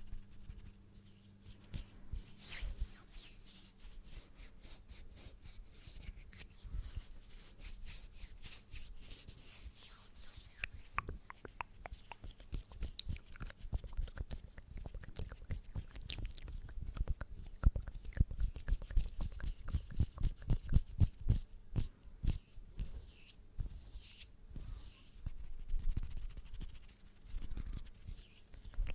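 Close-miked ASMR trigger sounds: rapid, crisp clicks and crackles in an irregular stream. They grow denser and louder about ten seconds in.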